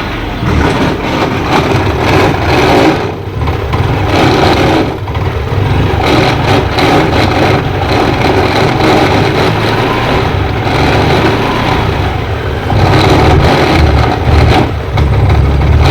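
Scooter engine running and being revved, with a loud noise from the rear wheel and gearbox that rises and falls with the revs. The mechanic puts it down to a worn-out main bearing inside the gearbox.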